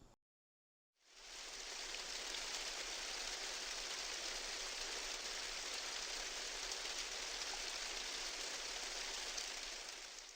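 Steady rain falling: an even hiss with faint scattered drop ticks, fading in about a second in and cutting off at the end.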